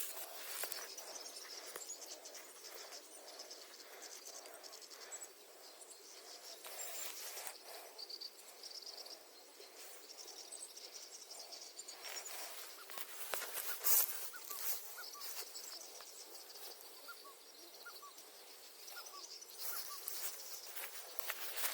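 Birds chirping and calling, with short high chirps throughout and a run of small rising calls in the middle. Scattered crackly rustles and clicks run under them, the loudest a sharp click about fourteen seconds in.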